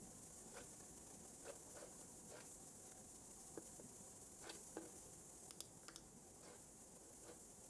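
Faint, irregular clicks of a computer keyboard and mouse, about a dozen spread unevenly, with a pair of sharper clicks a little past the middle. A steady low hiss runs underneath.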